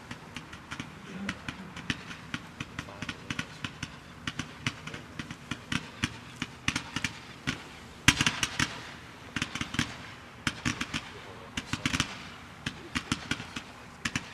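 A 210-shot consumer fireworks cake (Neon Tracer) firing a rapid string of sharp shots, several a second, with denser, louder volleys in the second half.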